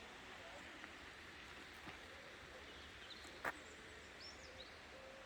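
Faint steady rush of a distant waterfall, with a few brief bird chirps past the middle and a single sharp click about three and a half seconds in.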